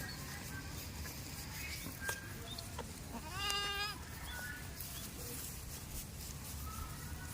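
A goat bleating once, a single call of under a second about halfway through.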